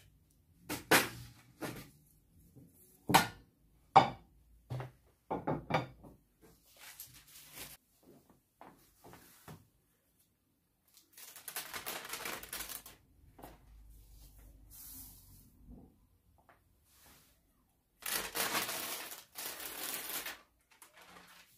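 Household handling sounds: a run of sharp knocks and clicks in the first six seconds, then two stretches of rushing hiss of about two seconds each, one near the middle and one near the end.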